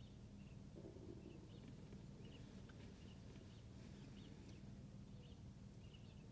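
Near silence: faint birds chirping in short, scattered calls over a low, steady hum.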